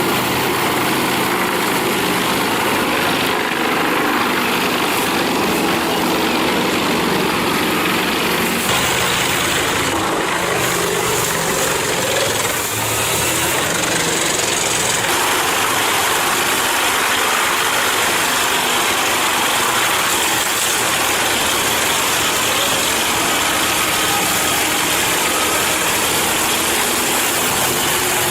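Wood chipper's engine running steadily at a constant loud level.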